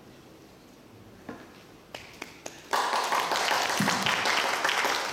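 A few light taps, then a little under three seconds in an audience bursts into applause, which tails off near the end.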